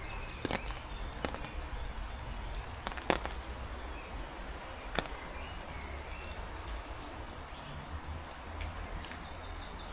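Heavy rain falling steadily, with a few sharp taps in the first half and a low rumble of wind on the microphone.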